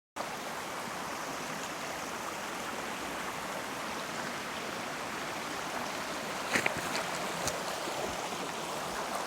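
Steady rush of falling and flowing water from a mountain waterfall and stream, with a few sharp clicks about two-thirds of the way through.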